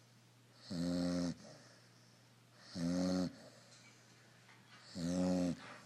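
Yellow Labrador puppy snoring in its sleep: three snores about two seconds apart, each lasting a little over half a second.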